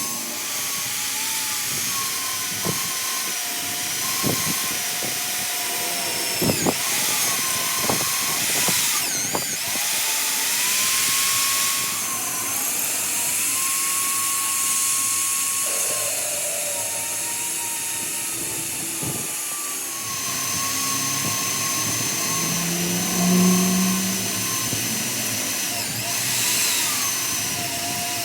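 Electric power tool running on metal, its motor whine dipping and recovering as it is loaded, with several sharp knocks in the first half.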